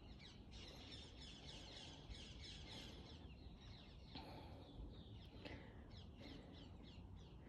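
Small birds chirping faintly, a quick run of short falling notes over a low background rumble.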